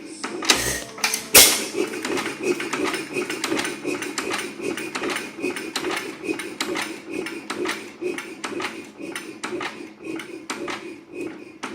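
5 hp Galloway hit-and-miss engine running, with an even, rapid clicking and knocking about three or four times a second. Two louder bangs come in the first second and a half.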